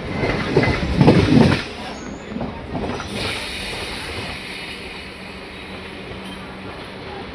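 Express passenger train running on the track: the wheels clatter loudly over rail joints for the first second and a half, then settle into a quieter, steady rolling rumble.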